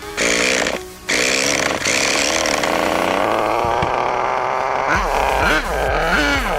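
Small nitro glow engine of a 1/5-scale RC motorcycle running hard with a high buzz. It drops out briefly about a second in, then revs up and down several times near the end.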